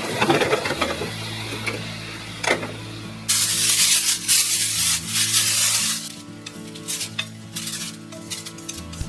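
Food sizzling in a hot pan, with a loud burst of hiss for about three seconds in the middle, over background music.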